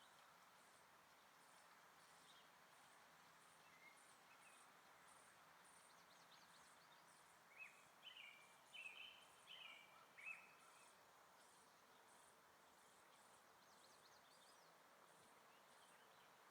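Quiet outdoor ambience with an insect chirping in a steady high pulse about twice a second, and a bird giving a short run of chirps about halfway through.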